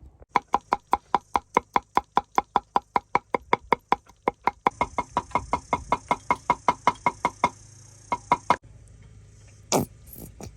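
Knife chopping on a cutting board: fast, even strokes about five a second that stop about seven and a half seconds in, followed by two more strokes and then one brief, louder sound near the end.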